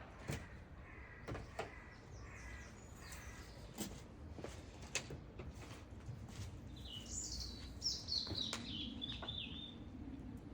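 A songbird chirping outdoors, with a quick run of high, falling chirps about seven seconds in and fainter calls earlier. Scattered sharp knocks and clicks are heard throughout.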